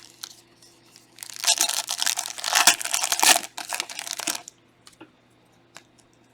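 Foil trading-card pack wrapper being torn open and crinkled for about three seconds, followed by a few light clicks of cards being handled.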